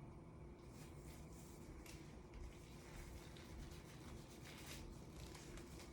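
Faint rustling and rubbing of disposable examination gloves being pulled onto the hands, over a low steady room hum.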